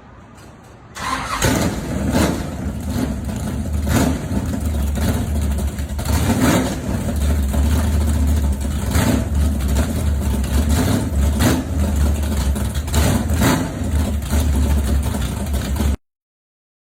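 A V8 engine with a loud exhaust cranks and fires about a second in on a cold start, then keeps running with a deep, uneven rumble broken by sharp pulses every second or so. It cuts off abruptly near the end.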